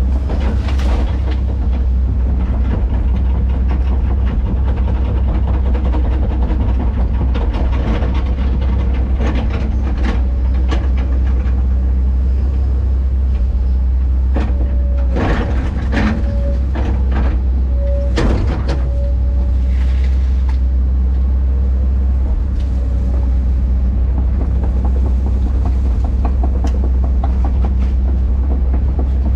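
Heavy earthmoving machine's diesel engine running steadily with a deep, loud hum, with sharp cracks and knocks about 15 and 18 seconds in and a brief whine around them.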